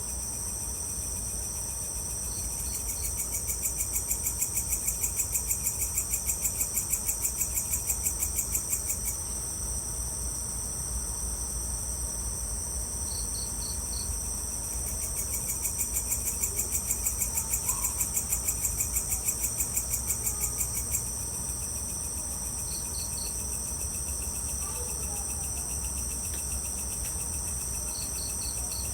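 Evening insect chorus with crickets chirring steadily and high. Twice a louder, rapidly pulsing insect call runs for about six seconds, and short three-pulse chirps come now and then. A faint low rumble lies underneath.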